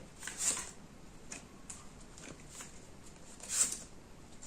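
Fortune-telling cards being handled and laid on a table: a few soft swishes and taps, the clearest about half a second in and again near the end, with fainter ticks between.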